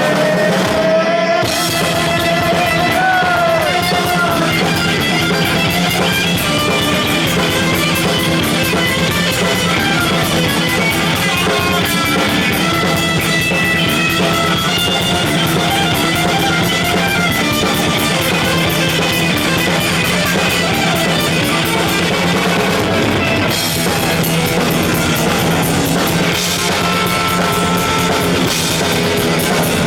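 Heavy metal band playing live, with distorted electric guitar, bass and a drum kit. There are bending guitar notes in the first few seconds.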